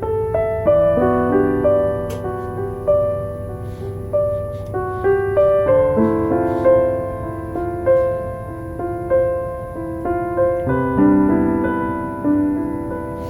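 Slow, soft piano music, one note after another, over a low steady hiss, with a few faint clicks of a crackling wood-wick candle.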